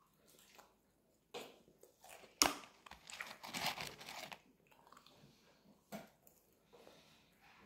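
Close-miked chewing and biting of McDonald's french fries, with irregular wet mouth clicks and smacks. The sharpest click comes about two and a half seconds in. Fries rustle in their cardboard box as a hand reaches in, between three and four seconds in.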